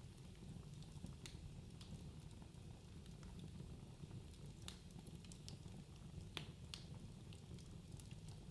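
Wood fire burning in a fireplace: a low, steady rumble of flames with irregular sharp crackles and pops of burning logs, a few louder ones scattered through.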